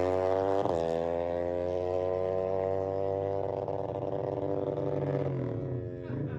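Single-cylinder four-stroke engine of a drag bike (a Yamaha Jupiter fitted with a Honda Supra engine bored up to 150 cc) giving one quick throttle blip, then running with a steady droning exhaust note that slowly drops in pitch and fades near the end.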